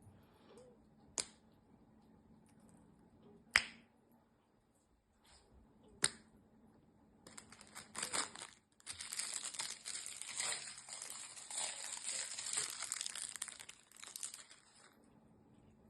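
Three sharp taps about two and a half seconds apart, then about seven seconds of dense crinkling and rustling of plastic or paper that stops near the end.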